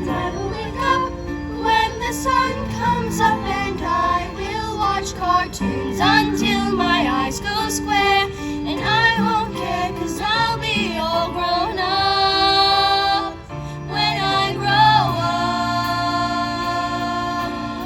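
A song sung over instrumental backing, the voice holding one long note about twelve seconds in.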